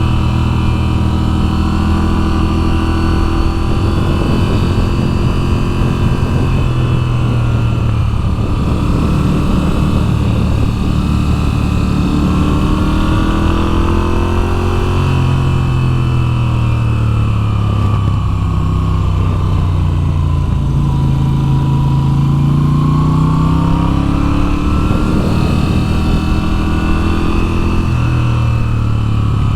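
2022 Moto Guzzi V7's air-cooled transverse V-twin engine running under way, its pitch rising and falling several times as the throttle opens and closes.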